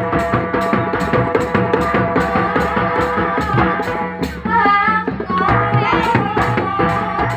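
Live Javanese jaranan music: drums and percussion keep a steady, dense beat under held pitched notes and a wavering melody line, with a short break in the beat a little after the middle.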